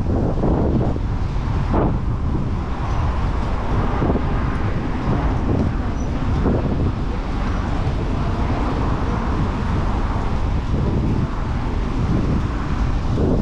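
Wind buffeting the microphone of a camera riding along on a bicycle, a steady low rumble with brief gusts, over city traffic noise.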